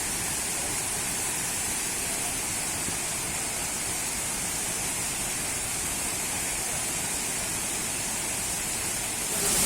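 Steady rush of falling water at the Neer Garh waterfall, getting louder just before the end.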